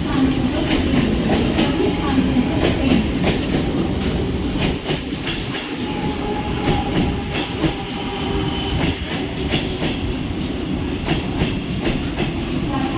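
Mumbai suburban electric local train running into the station: a steady rumble of wheels on rails with repeated clicks as the wheels cross rail joints, and a faint steady whine over it.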